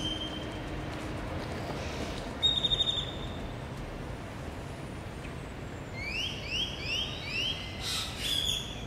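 Birds calling: a short, fast trill about two and a half seconds in, then a run of rising whistled notes repeated several times a second near the end, over a steady low background rumble.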